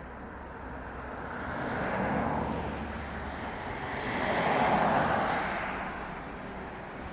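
Blizzard wind gusting: a steady rushing hiss that swells twice, the second gust the loudest, then eases off.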